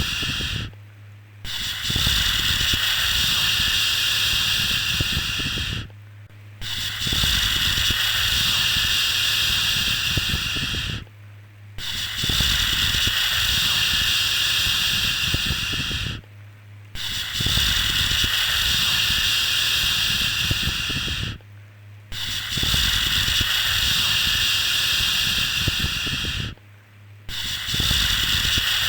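Repeated long 'shhh' shushing sounds for lulling a baby to sleep, each about four and a half seconds of steady hiss, with a short breath-like pause about every five seconds.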